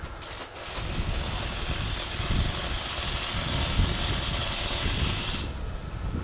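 Steam locomotive hissing steam over a low rumble; the hiss stops suddenly near the end.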